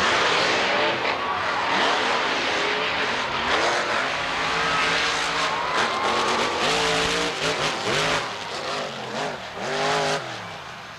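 Monster truck engines racing at full throttle, their pitch rising and falling again and again as the throttle is worked, then winding down about ten seconds in.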